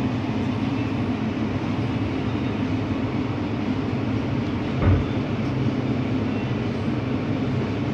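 Steady low machine hum, with a single dull thump about five seconds in.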